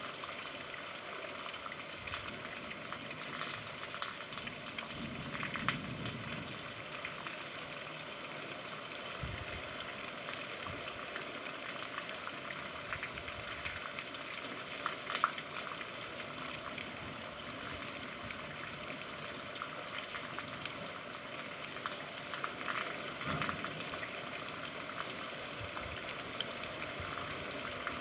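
Steady rain falling and water running, an even hiss with a few scattered louder drips and knocks.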